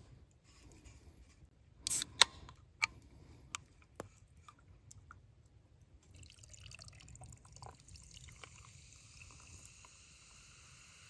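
A few sharp clicks or taps, then from about halfway a steady sizzling hiss of food starting to fry in a pan over the fire.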